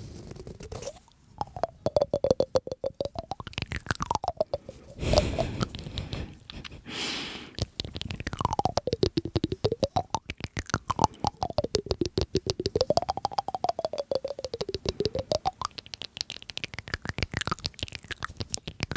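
Close-miked crunchy chewing: a rapid, continuous run of crisp crunches, with a brief louder burst about five seconds in. A slow, wavering tone glides up and down underneath.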